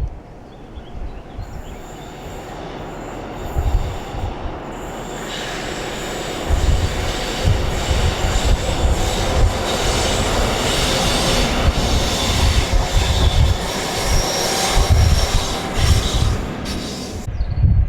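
A train passing close by, its noise building over several seconds to a loud, steady rush with high-pitched wheel squeal, then cutting off suddenly near the end.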